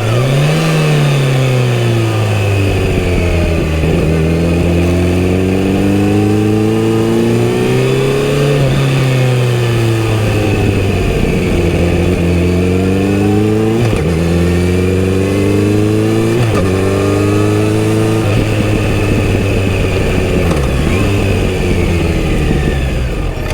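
Kawasaki Z900RS inline-four on its stock full exhaust system, accelerating through the gears while riding. The engine note climbs and then drops at each upshift, five times, with quick shifts near the middle, then settles and falls away near the end.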